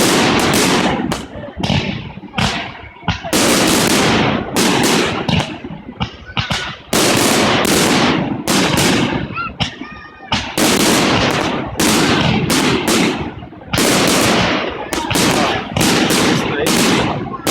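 Fireworks display: a rapid run of loud bangs and crackling bursts, each trailing off in an echoing tail, with crowd voices heard between them.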